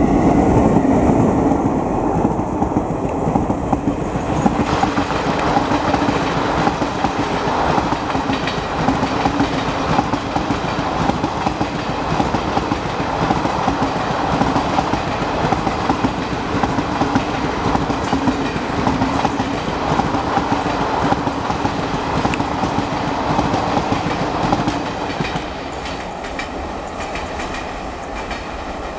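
A passenger train's coaches running past close by, their wheels rumbling and clattering over the rails. The sound stays loud and steady, then drops off about 25 seconds in as the end of the train moves away.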